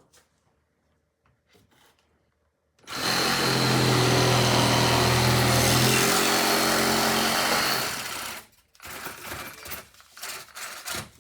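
Sawzall reciprocating saw with a long blade cutting through foam board, running steadily for about five seconds from about three seconds in, then winding down. Light crackling and rustling of foam follows.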